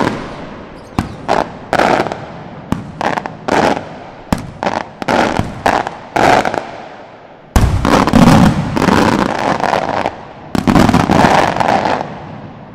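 Maltese aerial firework shells (beraq and salutes) bursting in a rapid run of sharp bangs, each trailing off in an echo. Heavier clusters of overlapping reports come about halfway through and again a few seconds later.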